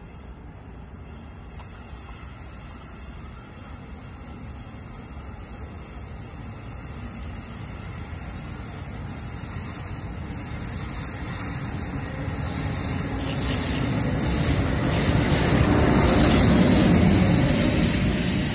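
Electric commuter train, hauled by an ALP-46A electric locomotive with bilevel coaches, approaching and passing: wheel and rail noise that swells steadily and is loudest as the cars go by near the end.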